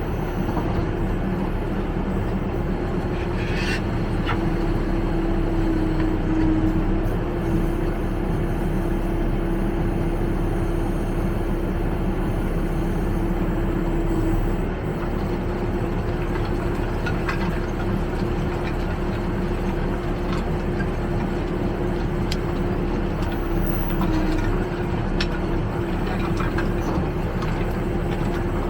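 Backhoe loader's diesel engine running steadily with a constant hum, with occasional short clicks and knocks over it.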